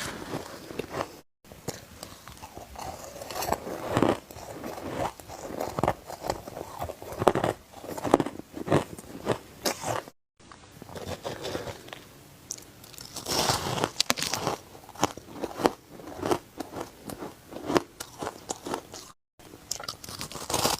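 Ice being bitten and chewed close to the microphone: repeated sharp, crackly crunches as pieces break between the teeth. The sound stops for a moment three times where one clip ends and the next begins.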